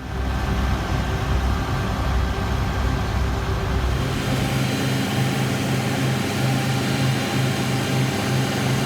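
A heavy vehicle's engine running steadily, with a shift in its low hum about halfway through.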